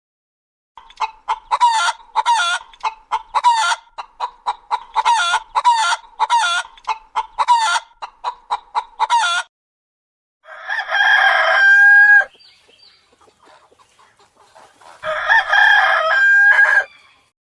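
Chickens: a long run of rapid, repeated clucking, then a rooster crowing twice, each crow ending on a held note.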